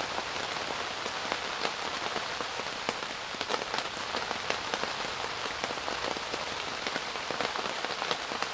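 Steady rain from a thunderstorm, with many separate drops striking sharply on a surface.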